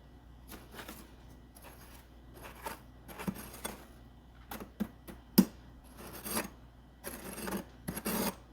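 Freezer frost being scraped and scooped into a container: irregular crunchy scrapes and small clicks, with one sharp knock about five seconds in and denser scraping near the end.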